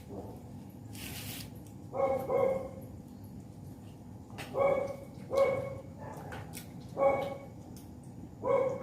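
A dog barking: six short barks, spaced about one to two seconds apart.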